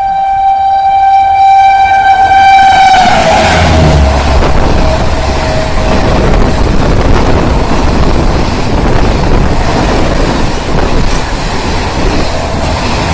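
WAP7 electric locomotive's horn sounding one long blast that drops in pitch about three seconds in as the locomotive passes, then the loud rushing rumble of the express's coaches running through at about 130 km/h.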